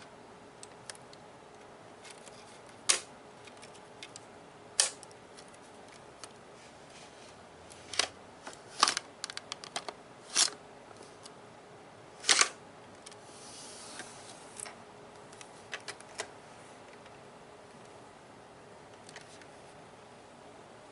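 Fingernails tapping on the plastic body of a Nerf gun: scattered sharp clicks a second or more apart, with a brief soft rub about two thirds of the way through.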